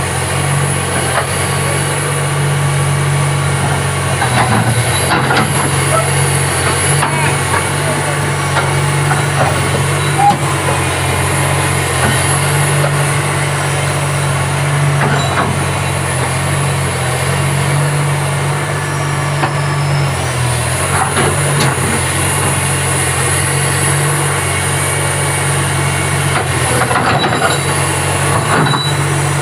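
Komatsu PC300-8 excavator's six-cylinder diesel engine running steadily, with scattered short knocks and clanks.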